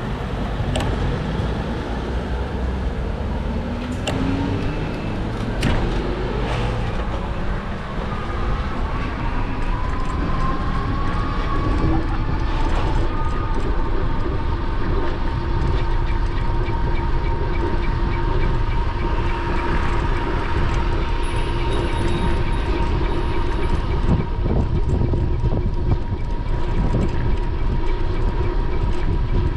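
Riding noise from an electric bike: wind buffeting and road rumble on the mounted camera's microphone. Over it, the motor's whine rises in pitch as the bike picks up speed, then holds a steady pitch from about halfway through.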